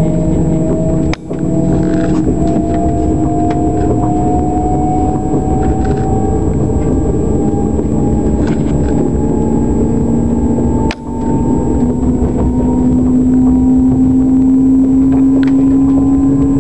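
Moving passenger train heard from inside: a steady rumble of wheels on rail with a motor whine that slowly rises in pitch as the train picks up speed. The sound briefly drops away twice, about a second in and about eleven seconds in.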